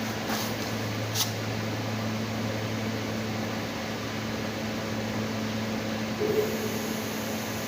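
Steady mechanical hum with a low tone, like a running fan, with two light clicks about a second apart near the start.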